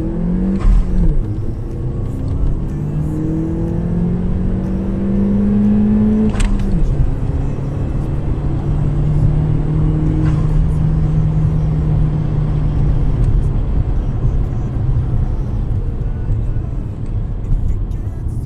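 Car engine accelerating with its pitch climbing, then a gear change about six seconds in: a click and a sudden drop in engine pitch, after which it runs steadily at the lower pitch. This is the upshift of a manual gearbox under acceleration.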